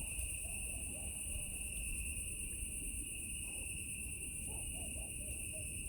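Chorus of cicadas singing at night, a steady unbroken high-pitched drone at two pitches, over a low rumbling background, with a few faint short calls lower down about halfway through.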